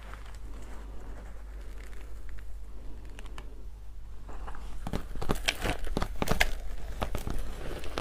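Ice being bitten and crunched close to the microphone. Faint crackling for the first few seconds, then a run of sharp cracks starting about five seconds in.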